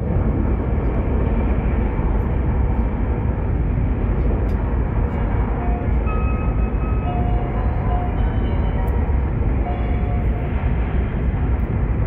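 Joetsu Shinkansen train heard from inside the passenger cabin while running at speed: a steady, dense low rumble with hiss from the wheels and the rushing air. A few faint steady tones come and go in the middle.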